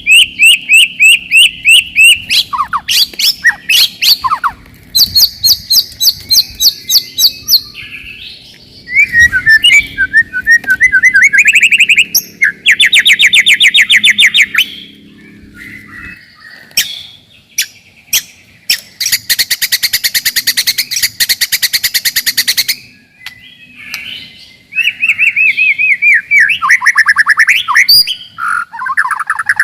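White-rumped shama singing loudly in varied phrases: rapid repeated whistled notes, sliding calls and fast harsh rattles, with short pauses between bursts.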